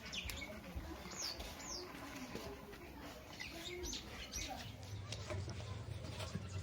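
Small birds chirping: a few short chirps that each fall in pitch, with scattered light clicks and knocks.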